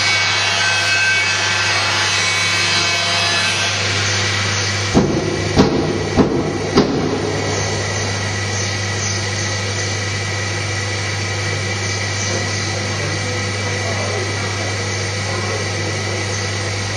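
CNC hot-wire foam cutter running while it cuts a polystyrene block: a steady low hum under a hiss of machine noise. Four sharp knocks come about five to seven seconds in.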